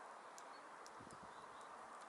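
Faint short high call notes of small birds at a winter feeder, over a steady background hiss, with a few light clicks and soft low knocks about a second in.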